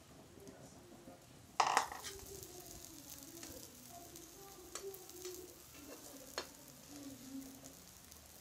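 Egg-soaked bread omelette sizzling in a nonstick frying pan. There is a loud knock about a second and a half in, then a few sharp taps of a metal spatula against the pan.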